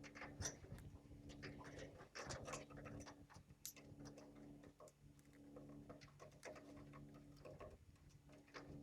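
Faint, irregular clicking of lovebirds' beaks pecking at and cracking seeds, over a low steady hum.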